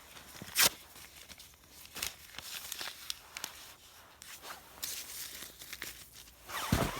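Close rustling, crinkling and snapping of twigs and paper being handled, with several sharp cracks; the loudest, near the end, carries a low knock.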